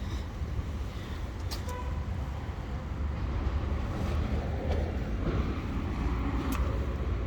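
Street traffic noise: a steady low rumble, with a few faint clicks and a brief short tone about one and a half seconds in.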